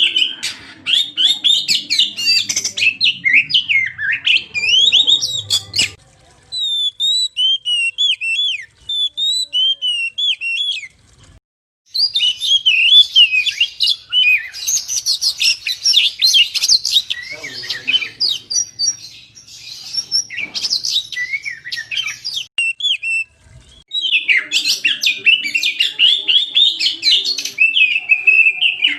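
Oriental magpie-robin (kacer) singing a fast, varied stream of whistles and chirps, in long phrases broken by a few short pauses.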